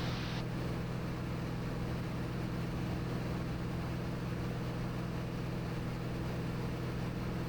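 Cirrus SR22T's turbocharged six-cylinder engine and propeller droning steadily in level cruise, heard inside the cabin as an even hum with hiss above.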